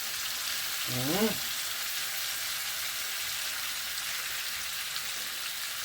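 Food frying in a hot cooking pot: a steady sizzle, with a short vocal sound about a second in.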